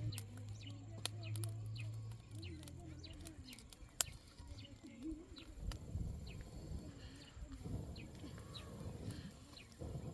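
Small birds chirping repeatedly in short, falling calls, over a low hum that stops after about two and a half seconds. A single sharp click comes about four seconds in, and low rumbling follows in the second half.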